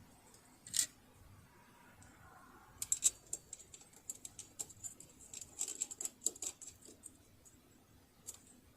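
Light, irregular clicks and small rattles of hard parts being handled. There is a single click about a second in, then a quick uneven run of clicks from about three to seven seconds, and one more near the end.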